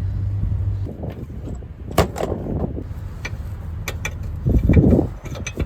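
A truck's engine hum stops about a second in, followed by a few sharp knocks and clunks and a short rumbling scrape near the end.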